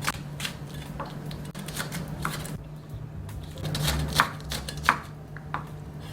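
Kitchen knife cutting food into strips on a cutting board: irregular sharp taps of the blade hitting the board, several close together at first, then a few more after a short pause, over a steady low hum.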